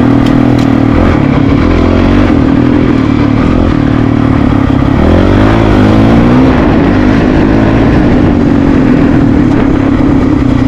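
Honda CRF450RL's single-cylinder four-stroke engine running under way on a dirt trail, loud and steady, its pitch dipping and then climbing again about five seconds in.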